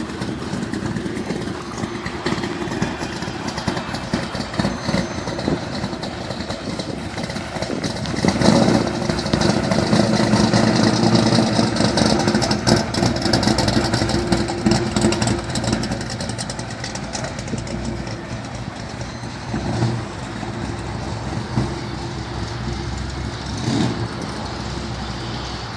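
Cammed V8 of a custom 1964 Chevrolet Impala running through its exhaust with a loping idle. It gets louder for several seconds from about eight seconds in, then settles back.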